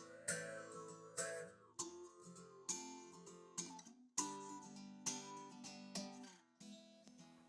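Background music: acoustic guitar strummed in a steady rhythm, each strum ringing out.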